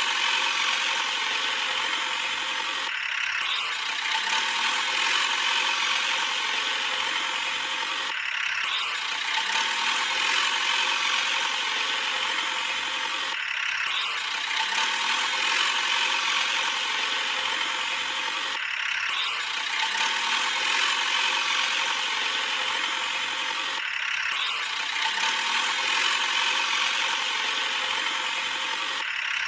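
Toy JCB's small motor and gears whirring steadily while it works, broken by a short pause about every five seconds.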